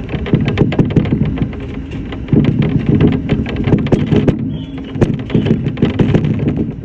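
Shinano Railway SR1-series electric train running, heard from inside the leading car: a low rumble with dense, irregular rattling and clicking.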